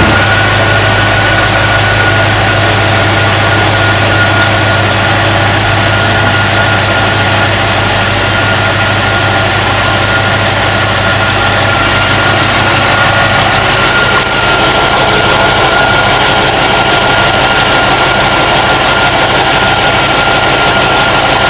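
Magnacharger-supercharged LS2 V8 idling steadily, with a constant high whine held over the engine note.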